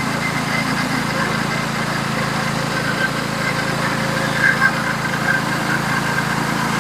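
Norwood HD36v2 portable band sawmill running steadily, its gas engine driving the band blade through a wide cut in a large log.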